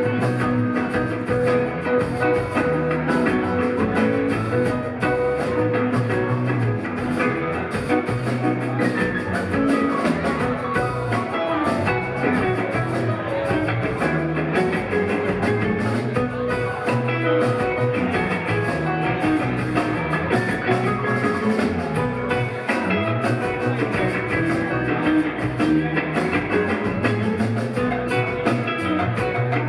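A live rock band playing an instrumental passage: electric guitar over bass, drums and keys, steady and continuous.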